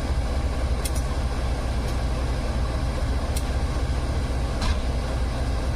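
Steady low rumble of a passenger train in motion, heard from inside the carriage, with a few faint clicks from about a second in.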